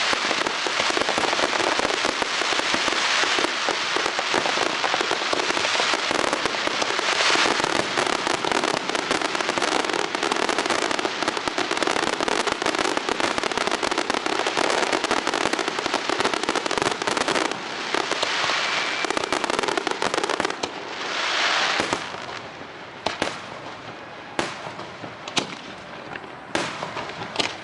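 Fireworks display: a dense, continuous barrage of bursts and crackling shells. About 21 seconds in it thins out to a handful of separate bangs with short gaps between them.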